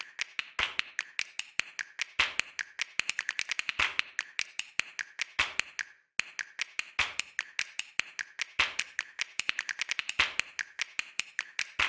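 Rapid, rhythmic sharp clicks or taps, several a second, with a stronger click about every one and a half seconds and a brief break about halfway through.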